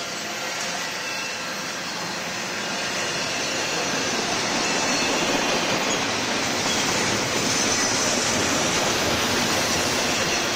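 Double-stack container train's well cars rolling past: steady noise of steel wheels on rail, growing slightly louder about four seconds in.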